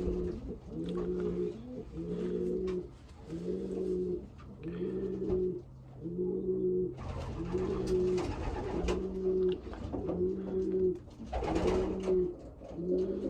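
Racing pigeon cooing over and over in an even rhythm, about one coo a second.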